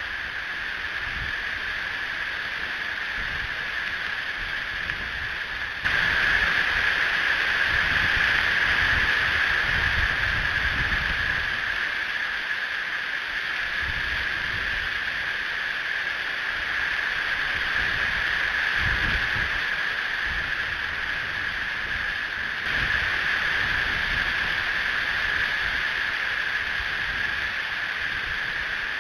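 Strong wind gusting across an outdoor nest camera's microphone: irregular low buffeting rumbles under a steady hiss, stepping up suddenly about six seconds in.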